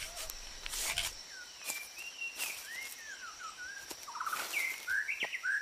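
Rainforest birds calling: a string of short whistled notes that slide up and down, growing busier toward the end, over a steady high insect whine. A few brief rustles break in, the loudest about a second in.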